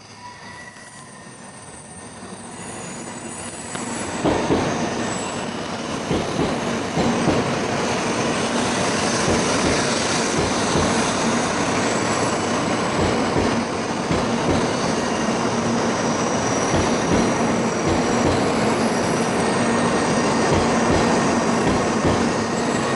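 N700 series Shinkansen train running into the station: its noise grows steadily louder over the first four seconds as it comes out of the tunnel, then holds as a loud, steady rush of the cars running past along the platform, with faint steady high tones over it.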